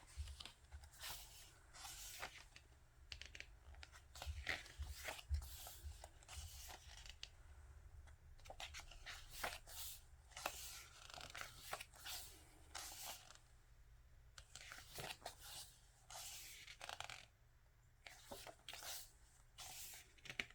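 Faint, irregular rustles and soft flicks of an album's glossy photo book pages being turned and handled by hand.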